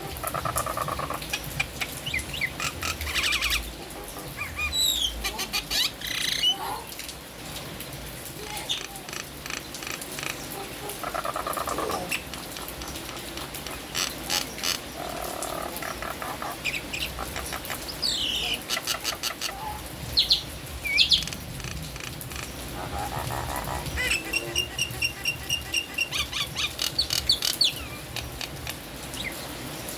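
Jalak nias myna singing a varied song of short rising and falling whistles, harsh calls and rapid clicking chatter, with a run of quick repeated high notes near the end. Steady rain hiss underneath.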